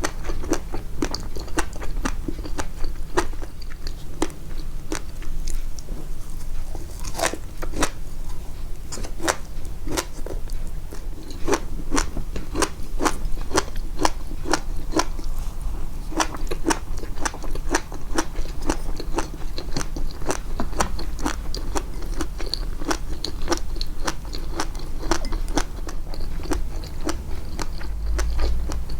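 Close-miked chewing and biting, with crisp crunching clicks about two to three a second, boosted in the edit so that every bite stands out.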